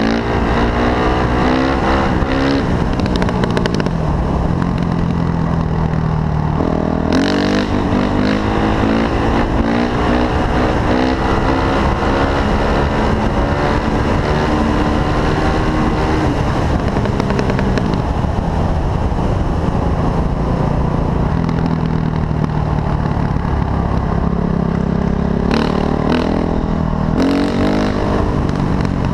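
Honda CRF450 dirt bike's single-cylinder four-stroke engine running under way, its pitch rising and falling as the throttle opens and closes, over a steady low rush of wind.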